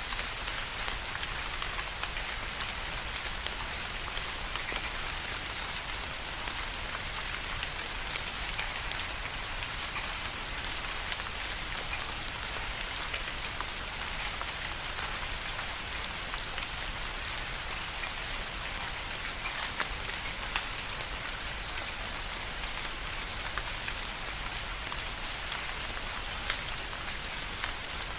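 Steady rain falling, a dense hiss with many small distinct drop ticks.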